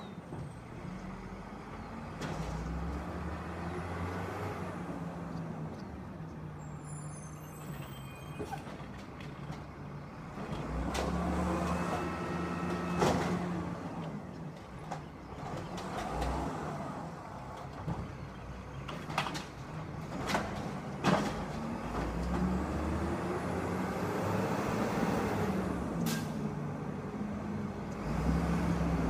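Garbage truck engine running and revving up and down several times, with a few sharp bangs and hisses through the middle of the stretch.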